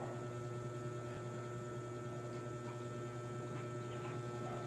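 Steady low electrical hum with a few faint constant tones over background hiss.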